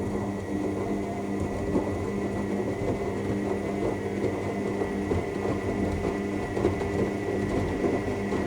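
AEG L7FE7461BI front-loading washing machine turning its drum in the main wash: a steady motor whine over laundry and water tumbling in the drum. The drum stops near the end.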